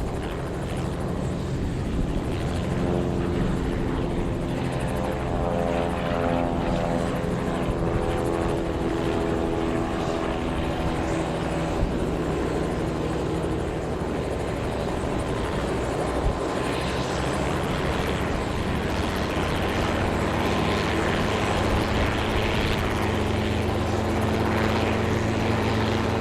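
Aircraft engine noise running steadily, with a set of engine tones that slide in pitch during the first ten seconds or so, then settle into a steady low drone.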